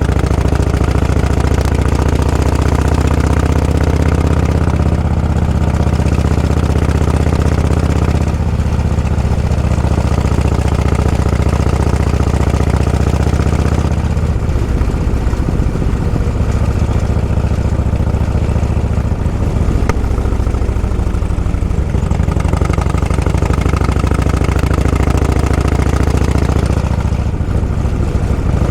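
Motorcycle engine running at low road speed, its note shifting a few times as the throttle changes.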